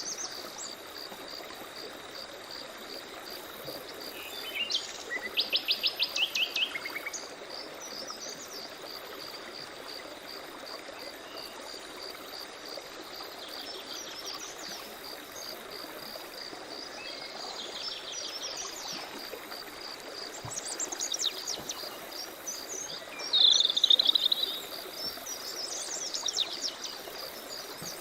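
Mixed wild birdsong: several birds chirping and trilling, the loudest being a fast trill about five seconds in and a burst of calls near the end. Beneath them runs a steady, evenly pulsing insect chirr and a soft constant background hiss.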